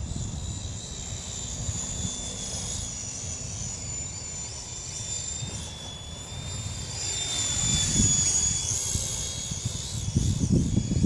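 Small electric RC helicopter in flight: a high-pitched motor and rotor whine that wavers slightly in pitch, over gusty wind buffeting the microphone that gets heavier near the end.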